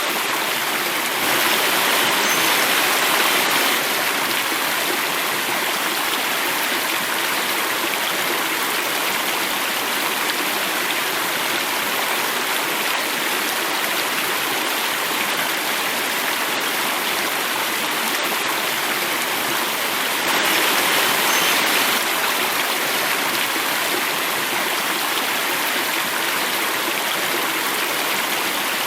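Water running and falling over a small cascade, a steady rushing and splashing that swells slightly twice, about a second in and again past the twenty-second mark.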